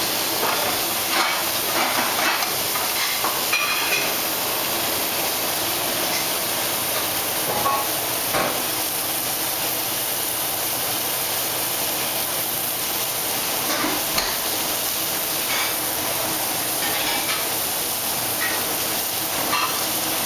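Chicken pieces and onions frying in oil in a pan: a steady sizzle, with a few light clicks from the pan or a utensil.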